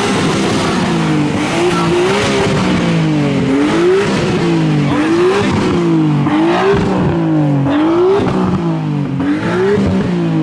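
A Subaru's engine revved over and over, the pitch climbing and dropping back about once a second, about nine times in a row.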